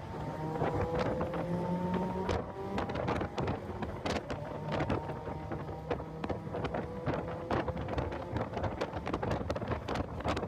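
A track car's engine pulling hard, its pitch climbing, breaking off about two seconds in as a gear is changed, then climbing again. Heavy wind buffeting on the microphone drowns it in constant crackling thumps.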